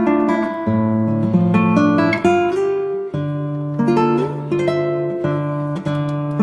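Background music on acoustic guitar: plucked and strummed chords, the notes changing every half second or so.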